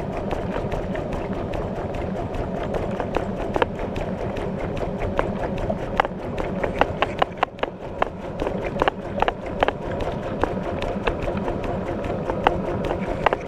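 Washing-machine wash cycle heard from a camera inside the tub: water sloshing and churning steadily, with many irregular knocks and clicks as wet laundry and water hit the camera's housing and the tub wall, thickest around the middle.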